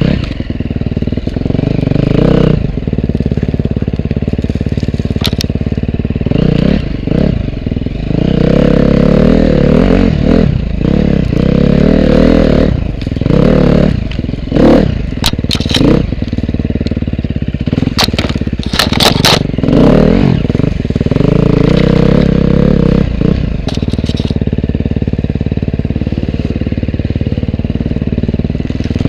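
Dirt bike engine running hard, revving up and falling back again and again, with scattered clattering knocks and scrapes.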